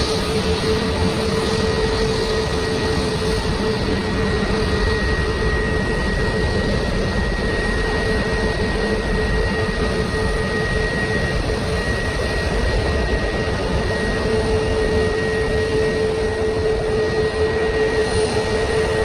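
Airbus jet airliner's engines running steadily: a constant rushing noise with a steady whine laid over it.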